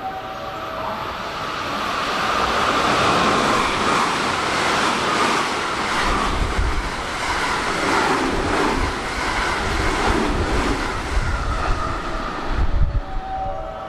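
JR West electric commuter train passing close: a rising rush of wheel and air noise that stays loud, with a low rumble under it through the second half, cutting off suddenly near the end.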